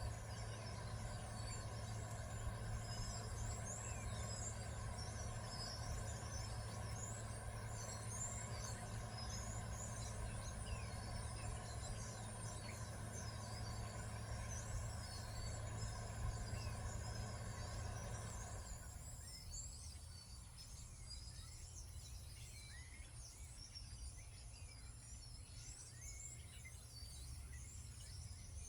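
Many small birds chirping, with quick high chirps and twitters overlapping throughout. Under them a steady mechanical hum runs and then stops about two-thirds of the way through.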